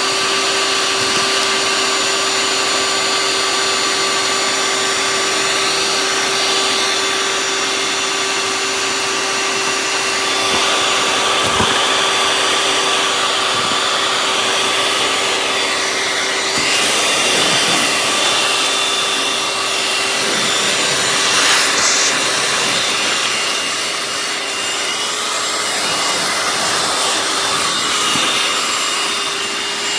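Small shop vac running continuously with a steady motor whine and rushing suction, cleaning up dirt and debris. The sound changes briefly around 17 and 21 seconds in.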